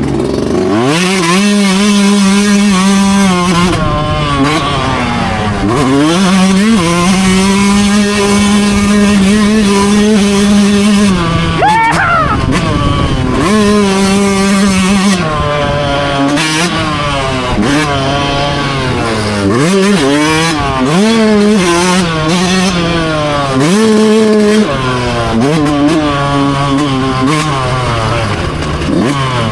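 Dirt bike engine racing on a motocross track, revving hard. Its pitch climbs, holds at full throttle, then drops again and again as the rider shifts and eases off for corners.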